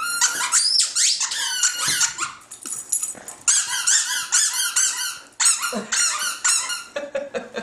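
Rubber squeaky dog toy squeaked over and over in quick runs of high, short squeaks, with a brief pause about halfway through.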